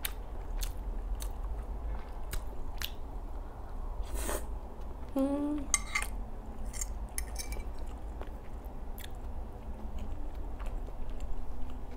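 Close-up eating sounds: chewing and lip-smacking on cream pasta, with a metal fork clicking and scraping against the bowl. A brief hummed voice sound comes about five seconds in.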